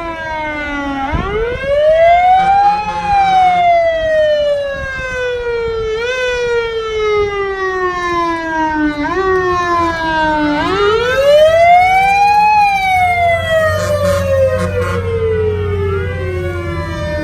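An emergency vehicle's siren wailing: it winds up over about a second and a half, then slowly winds down with a few short boosts, and winds up again about ten seconds in. Overlapping rising-and-falling wails come in near the end, over a low engine rumble.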